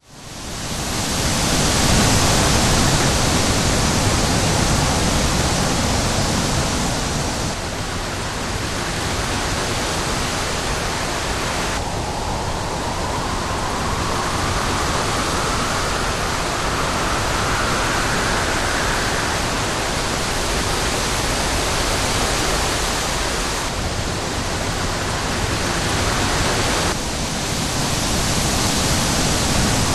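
Strong wind in a windstorm: a steady rushing noise, with a faint rising whistle through the middle, and the sound shifting abruptly a few times.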